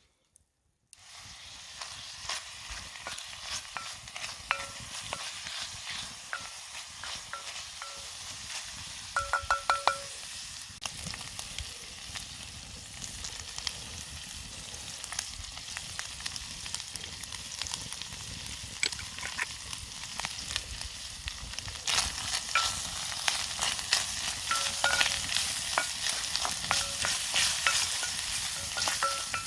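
Food frying and sizzling in a cast-iron Petromax Dutch oven over a campfire while it is stirred, with repeated short taps from the stirring and a quick run of them about nine seconds in. The sizzle starts abruptly about a second in.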